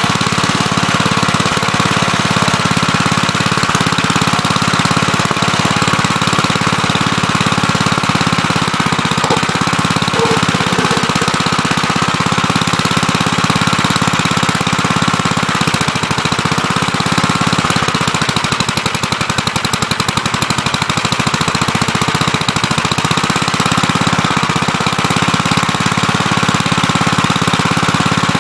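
Gravely Terramite backhoe's engine running loudly and steadily with a fast, even beat, dipping slightly in level for a few seconds about two-thirds of the way through.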